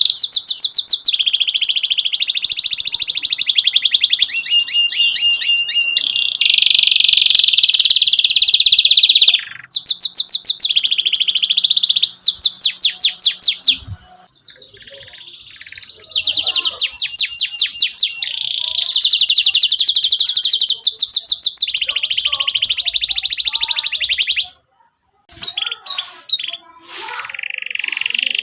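Domestic canary singing in long, continuous phrases: fast trills of rapid repeated notes alternating with held buzzing rolls, with only short breaks between phrases.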